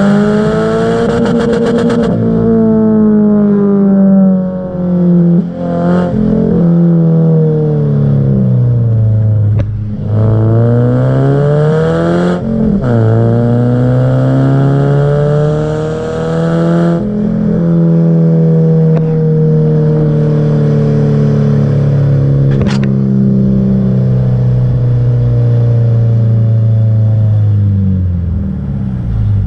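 Subaru Impreza 1.5R's flat-four engine heard through an aftermarket exhaust while driving, its note climbing and falling several times with short breaks between, as it pulls through the revs and eases off.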